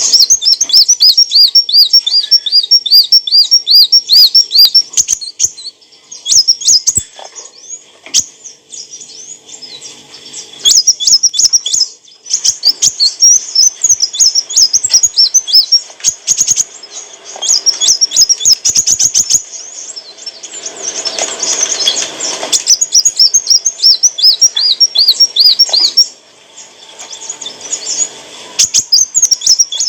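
A kolibri wulung sunbird singing: phrases of rapid, high twittering notes, several a second, broken by short pauses.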